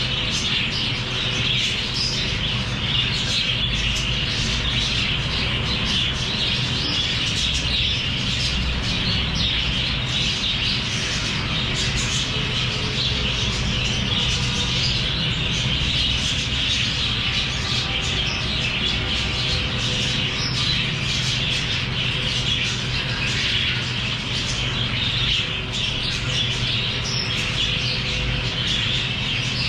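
A flock of lovebirds chirping and squawking continuously in overlapping high chatter, with a steady low hum underneath.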